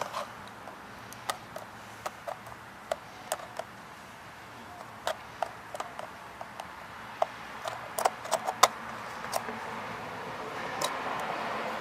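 Sharp metallic clicks and taps of hands and tools working at a cut-open oil filter, trying to free the stuck filter element from its steel canister. Several come close together about eight seconds in, and a rougher scraping noise builds near the end.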